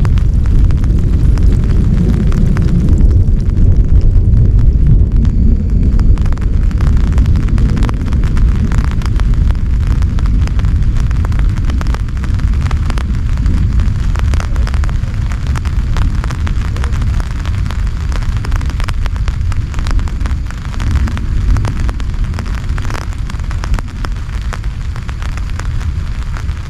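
Heavy rain falling steadily, with a dense crackle of drops striking close by over a strong, constant low rumble.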